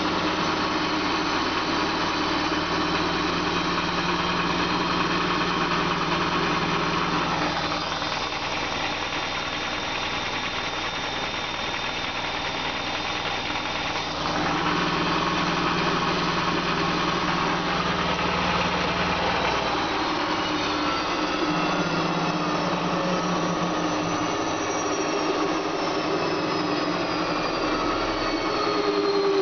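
A 17-year-old Bosch WFK 2400 front-loading washing machine spinning, its motor and drum making a steady hum that is somewhat louder with age. The hum eases off about eight seconds in and picks up again about six seconds later. In the second half a faint whine rises in pitch and then falls.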